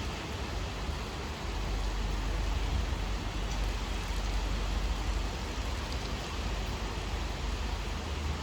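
Steady rain falling, an even hiss of drops with no let-up, over a strong low rumble.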